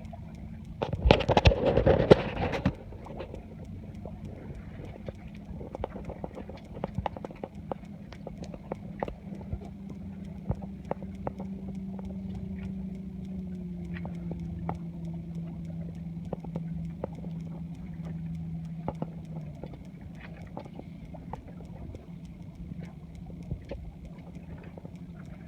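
Small sailboat under way: irregular light knocks and splashes of water against the hull. A loud rush of wind or spray comes about a second in, and a steady motor hum drops in pitch midway and stops a few seconds later.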